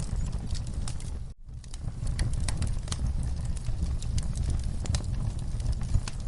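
Wood fire burning in a fireplace: a steady low rumble with irregular crackles and pops. The sound drops out for a moment about a second and a half in.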